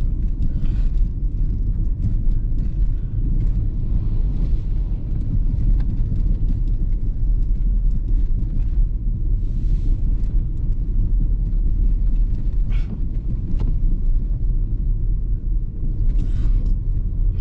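Steady low rumble of a car driving on the road, engine and tyre noise heard from inside the car, with a few brief hissy swells.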